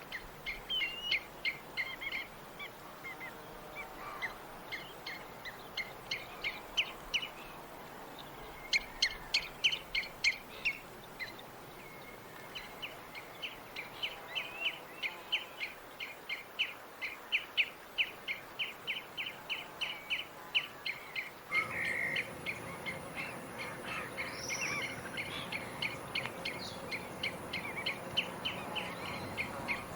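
Tropical birds chirping in short, sharp notes, one bird repeating a steady run of about three chirps a second. About two-thirds through, a steady background hiss rises abruptly under the birdsong.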